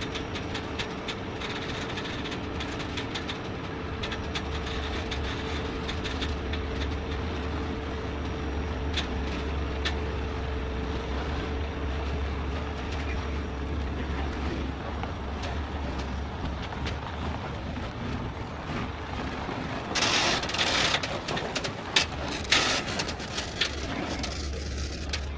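Heavy truck diesel engine running steadily at a low, even rumble, with light ticks and clanks. About twenty seconds in, two short loud bursts of hissing cut in.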